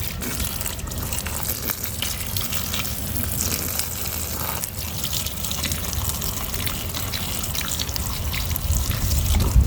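Water running and splashing steadily, as when muddy toys are rinsed off, with a low rumble underneath that swells near the end.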